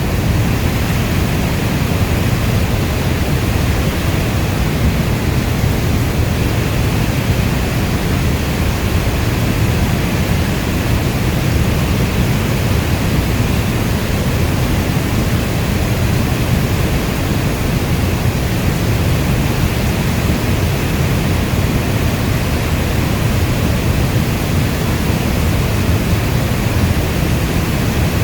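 Steady heavy rainfall: a dense, even wash of rain noise, heaviest at the low end, with no single drops, thunder or other events standing out.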